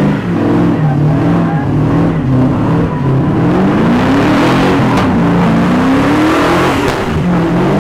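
Car engine revving hard during a burnout, its pitch climbing and falling back again and again, with a rushing tyre noise building behind it.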